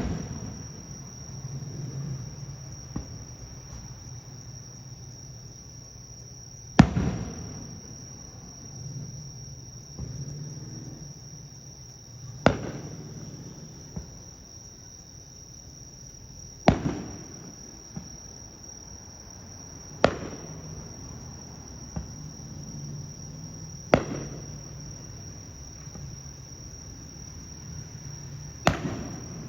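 Aerial firework shells bursting with six sharp bangs, roughly every four seconds, each trailing a short echo, with fainter pops between them. Insects trill steadily through it all.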